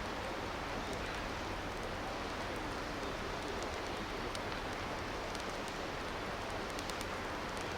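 Steady rushing of a river, with a few faint crackles from the wood fire, more of them near the end.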